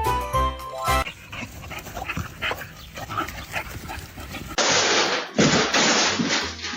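A dog yipping and whimpering among short scattered clicks. About two-thirds of the way in, a loud rushing noise cuts in suddenly.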